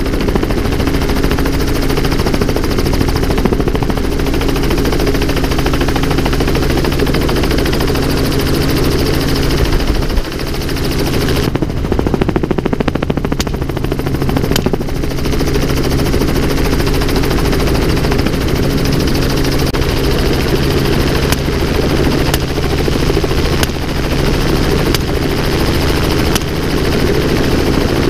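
Helicopter engine and rotor running steadily, with a few sharp cracks scattered through the second half.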